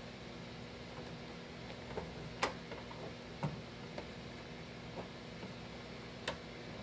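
About six light, sharp clicks or taps at irregular intervals, the kind made when kitchen utensils and dishes are handled, over a steady faint hum.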